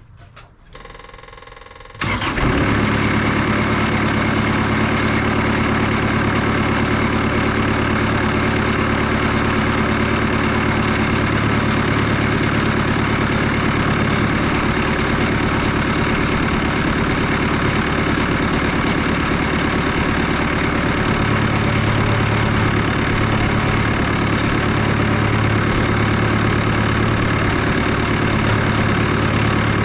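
Portable bandsaw sawmill running: its engine and blade set in suddenly about two seconds in and then keep a steady, loud drone while it cuts a slab from the log.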